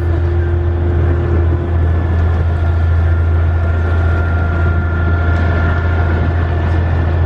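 Nautitech 44 catamaran's engine running steadily as the boat motors away, a deep continuous drone with a faint steady whine above it.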